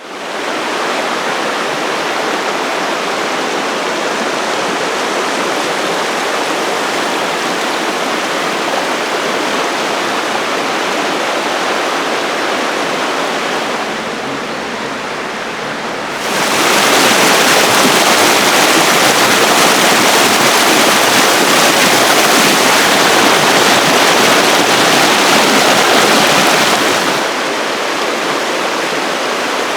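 Steady rushing water, like a mountain stream or small waterfall. It dips slightly about halfway through, then becomes louder and brighter for about ten seconds before dropping back near the end.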